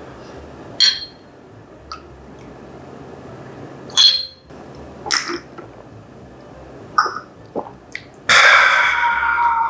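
Close-miked eating sounds: several short wet mouth smacks and clicks while chewing spicy japchae with bean sprouts and fish cake, then a long loud slurp of glass noodles near the end.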